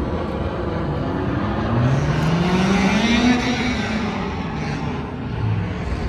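Car engine revving up and easing off, its pitch rising to a peak about three seconds in and then dropping, over a steady rumble of engine and road noise.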